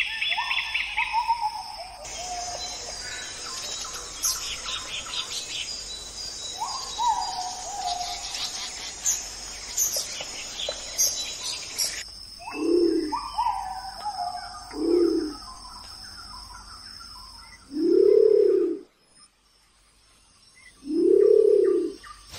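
Wild birds calling and singing: chirps and whistled calls sweeping down in pitch, then four low calls, each rising and falling in pitch, in the second half.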